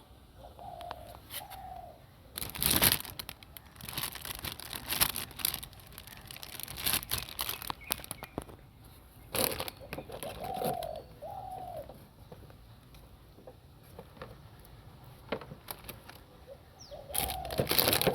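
Irregular bursts of rustling and crinkling with scattered clicks and knocks, and three pairs of short cooing calls spread through the stretch.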